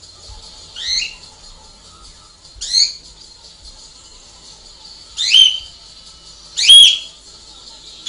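Pet bird calling from its cage: four short, shrill calls a second or two apart, each sweeping up in pitch, getting louder one after another.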